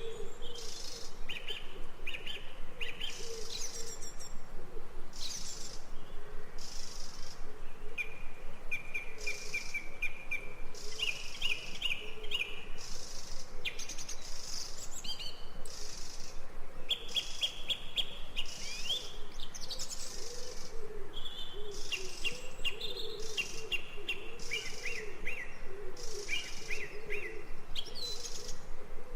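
Birdsong from a nature-sounds recording: several birds chirping and singing fast trills one after another, over a steady lower wavering call.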